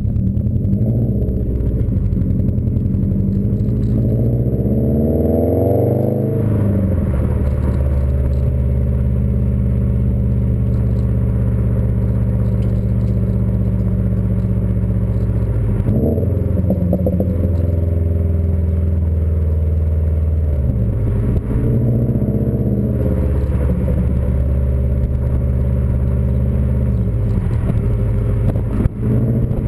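2015 Subaru WRX STI's turbocharged flat-four engine running through a Nameless aftermarket exhaust while driving: the note climbs in pitch a few seconds in and falls away sharply, holds a steady low drone, then rises and falls again later.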